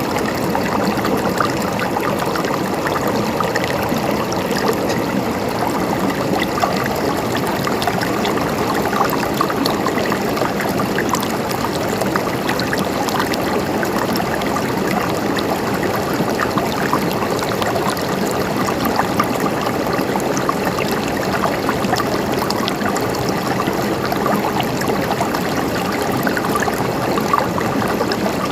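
River water running over rocks, a steady burbling flow with fine splashing.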